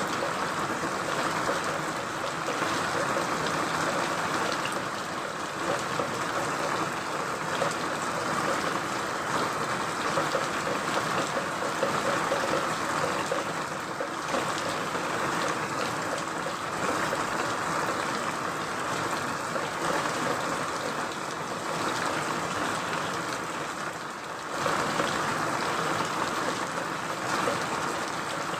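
Steady rain falling, an even wash of rainfall with fine scattered drips and taps, swelling slightly about two thirds of the way in.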